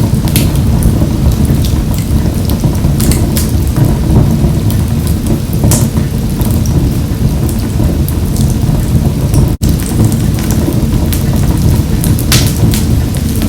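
Wood fire burning in a wood-burning stove: a steady low rumble of flames with sharp crackles and pops scattered through, a few of them louder. A split-second dropout breaks the sound about two-thirds of the way in.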